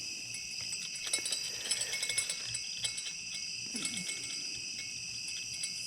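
Steady chorus of night insects, several high trills held without a break, with scattered faint clicks and rustles about one to two seconds in.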